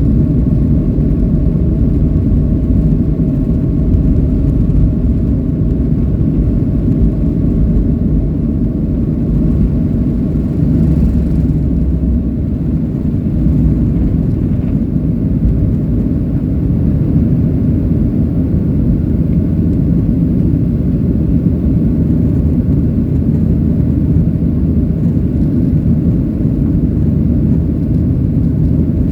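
Boeing 737-800's CFM56-7B turbofan engines running during the takeoff: a steady, loud low rumble with a faint steady whine above it.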